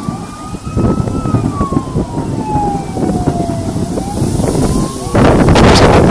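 A siren wailing, its pitch slowly rising, falling and rising again, over heavy wind buffeting on the microphone. About five seconds in, a loud gust of wind noise swamps everything.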